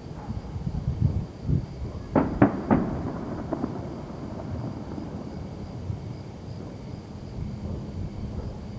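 Fireworks going off at a distance: repeated low booms and rumble, with three sharper bangs in quick succession about two seconds in.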